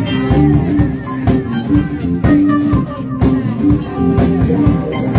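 Live band playing: guitar notes over a drum kit keeping a steady beat.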